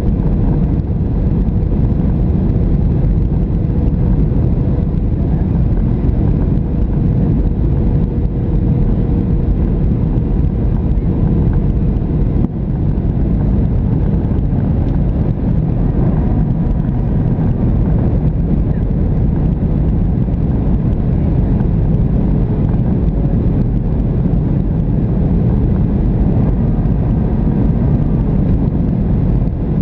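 Steady, loud cabin noise of a Boeing 737-700 in flight, from its CFM56-7B engines and the airflow, mostly a low rumble. A faint steady tone sits in the noise and fades out about halfway through.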